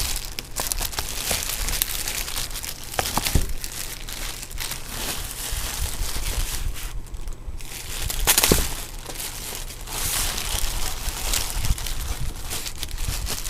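A cardboard box and its packing being handled, with irregular crinkling and rustling, a short lull about seven seconds in, and a couple of sharp knocks.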